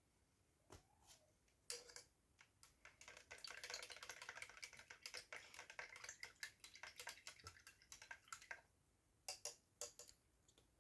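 Faint rapid clicking and crackling: a few single clicks, then a dense run of quick clicks lasting several seconds, and a few more clicks near the end.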